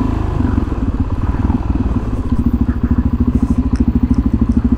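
Suzuki DR-Z400SM's single-cylinder four-stroke engine running at low revs, a steady, even thudding pulse.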